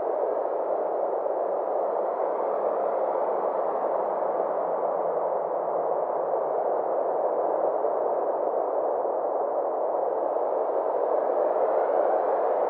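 Synthesized space-ambience drone: a steady, soft rushing noise that slowly brightens and dulls over several seconds, with no beat or melody.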